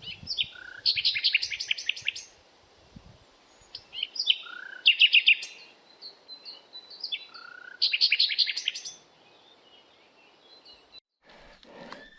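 A songbird sings the same short phrase three times, a few seconds apart. Each phrase is a rising note followed by a quick run of high notes, with fainter chirps from other birds in between.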